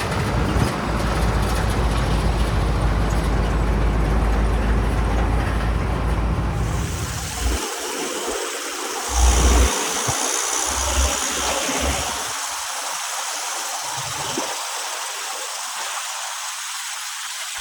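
Heavy diesel engine running with a steady low rumble; about seven seconds in the rumble drops away, leaving a hiss and a few scattered knocks.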